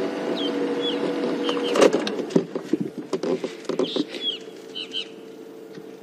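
Several short, high bird chirps over a steady low hum from the safari vehicle, which fades after about two seconds, with a run of scattered clicks and rustles from about two to five seconds in.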